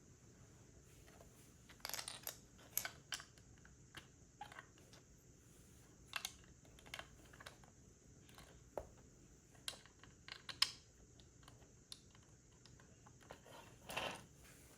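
Plastic Lego pieces being handled and pressed together: scattered light clicks and taps at irregular intervals, the sharpest a little past ten seconds, with a short rustle near the end.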